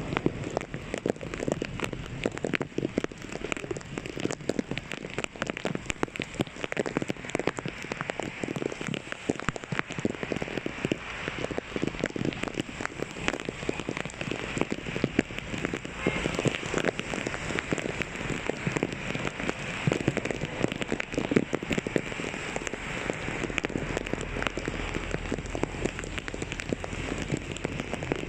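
Heavy rain falling, a dense, steady stream of drops striking close by. A low rumble comes in near the end.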